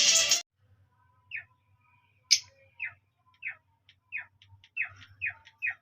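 Lovebirds chirping: short, sharp calls, each sliding down in pitch, spaced out at first and coming faster and more often near the end. Music cuts off about half a second in, and a faint low hum runs under the calls.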